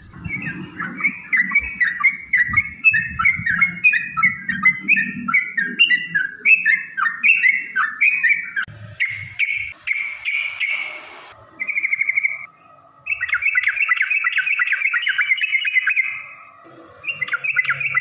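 Yellow-vented bulbuls singing long, rapid runs of chattering notes, an excited back-and-forth calling. The song comes in several bouts with brief pauses, and low thuds sound under the first half.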